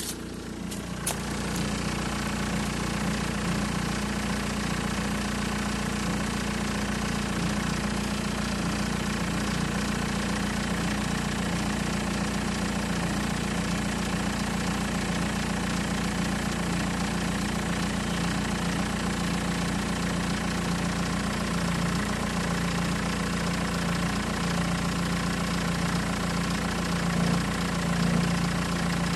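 Engine idling steadily with a fast, continuous rattle that the owner suspects may be the timing chain.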